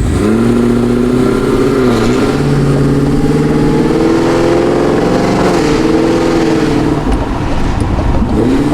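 Cadillac Escalade-V's supercharged LT4 V8, built with aftermarket heads and cam, accelerating hard through the gears, heard from inside the cabin. The engine note climbs, drops at an upshift about two seconds in and again past five seconds, then falls away near the end as the throttle closes.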